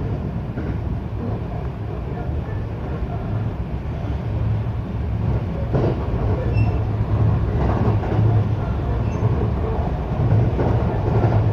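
Inside a local electric train running between stations: a steady low rumble of wheels on rail, with a few sharper knocks from the track, growing a little louder after about four seconds.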